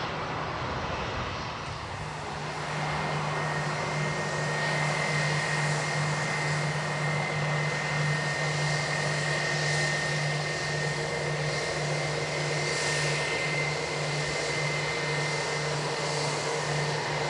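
Airbus A321 jet engines running with a steady roar and a constant high whine, which sets in a few seconds in.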